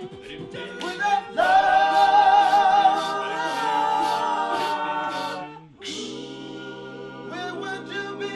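All-male a cappella group singing held chords, a lead voice sustaining a high note with vibrato over the harmony. About six seconds in, the chord breaks off for a moment and a new chord begins.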